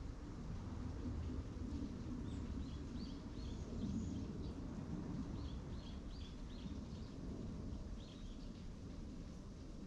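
Birds chirping in short, repeated calls, over a steady low outdoor rumble.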